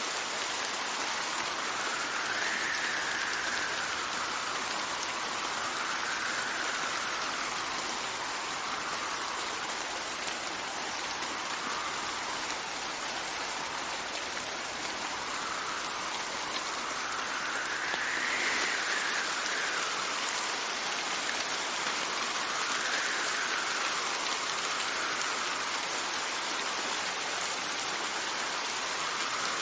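Steady rain hissing, with wind gusting over it in a faint whistle that rises and falls in pitch every few seconds.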